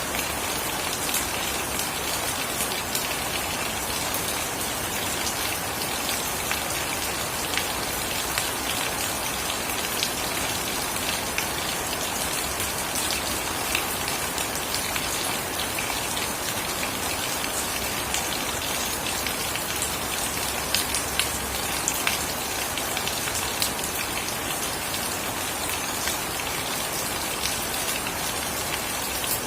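Steady rain falling, a dense even hiss with many individual drops ticking on surfaces and a few louder taps around twenty seconds in.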